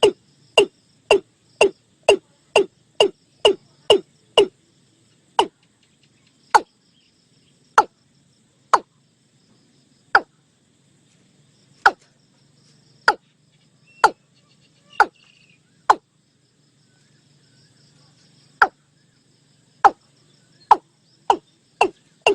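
Watercock calling: a series of short, clipped notes, about two a second at first, slowing to roughly one a second in the middle and quickening again near the end. A faint insect buzz runs underneath.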